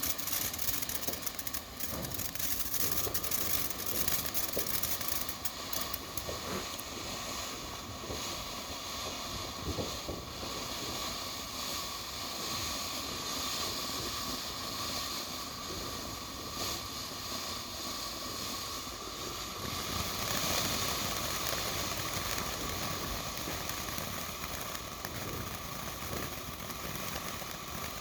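Ground fountain firework spraying sparks with a steady hiss, growing a little louder and brighter about twenty seconds in as the display changes stage.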